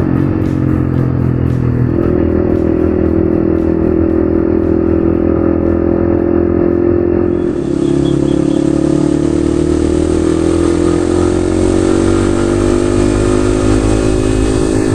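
Yamaha XSR155's single-cylinder engine running under way, its pitch stepping with a gear change about two seconds in and again halfway through, then rising slowly as the bike accelerates. A steady hiss joins at the second change.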